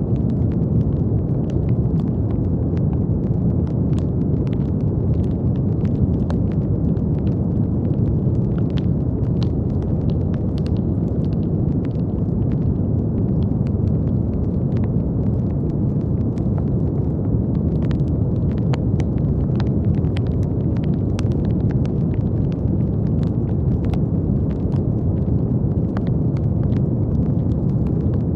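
Brown noise: a steady, deep hiss weighted toward the low end, with faint scattered crackles sprinkled through it.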